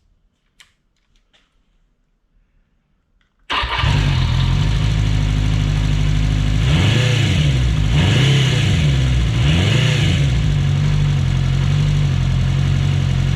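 Benelli 250cc four-cylinder motorcycle engine starting suddenly after a few faint clicks, on its first run after its carburettors were cleaned. It is blipped up and down three times, then settles into a steady run.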